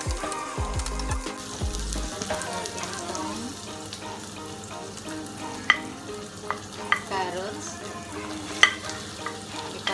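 Sliced onion, garlic and ginger sizzling in hot oil in a frying pan, stirred with a wooden spatula. A few sharp clicks come in the second half as carrot sticks are scraped off a plate into the pan.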